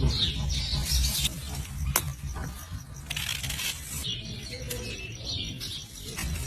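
Birds chirping, with a sharp click about two seconds in.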